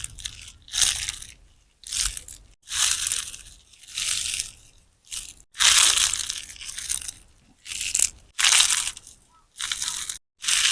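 A large sponge soaked with clear slime being squeezed by hand again and again, each squeeze giving a wet, crackly squelch, about one a second.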